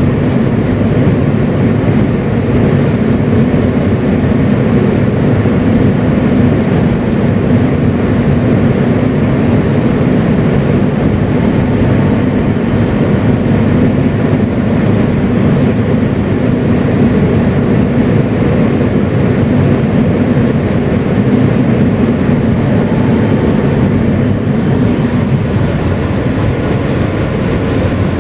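R160B subway car with Siemens propulsion running steadily along the track, heard from on board: loud, even wheel and motor noise with no stops or changes.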